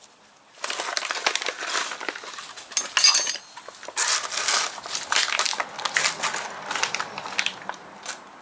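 Rustling, crackling and small clicks of metal workshop parts being handled while valve springs, caps and collets go onto a cylinder head, with one bright metallic clink about three seconds in.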